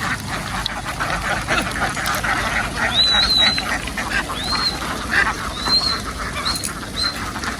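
A large flock of ducks quacking and chattering continuously, many calls overlapping. A few short, thin, high-pitched calls stand out above the flock several times.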